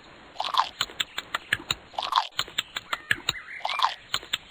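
Cartoon sound effect of an apple being eaten: quick, even crunching bites, about four or five a second, with three short squeaky sounds among them.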